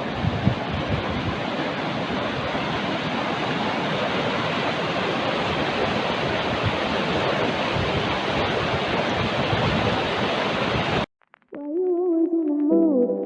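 Steady rush of fast-flowing mountain water, with some wind buffeting on the microphone at the start. It cuts off abruptly about eleven seconds in, and after a brief silence music with sustained pitched notes begins.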